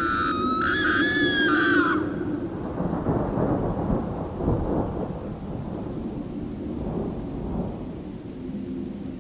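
Recorded horror sound effect: a high, wavering screech for about the first two seconds over a low rumbling noise. The rumbling, crackling noise carries on alone after that.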